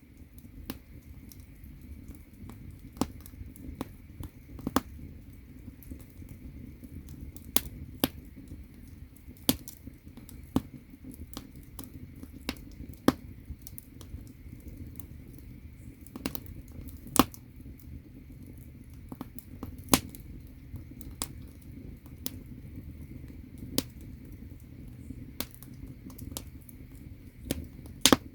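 Firewood burning in an agungi, the wood-fired firebox of a Korean ondol floor, crackling with sharp, irregular pops about once or twice a second over a steady low rumble of the fire.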